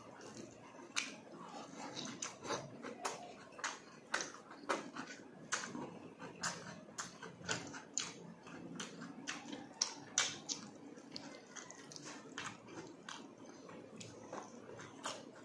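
Close-up wet chewing and lip smacking as a person eats vinegar-stewed tuna jaw with rice by hand. Sharp smacks and clicks come irregularly, a few a second.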